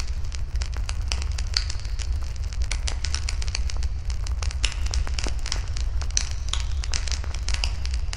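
Wood fire burning, with many small irregular crackles and pops over a steady low rumble.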